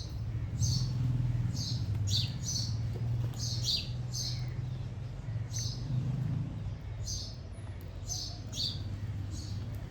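Small garden birds chirping: short, high chirps repeated every half second or so, with a pause around the middle, over a steady low hum.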